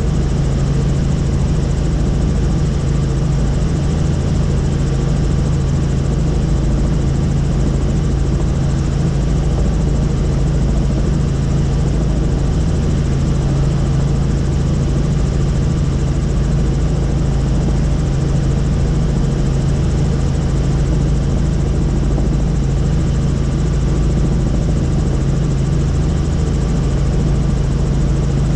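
Helicopter in flight: steady rotor and engine noise with a strong low hum and rumble.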